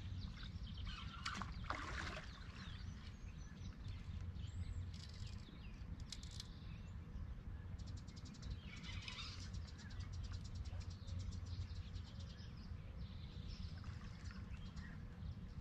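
Birds chirping and calling over a steady low outdoor rumble, with a rapid run of ticks about eight seconds in.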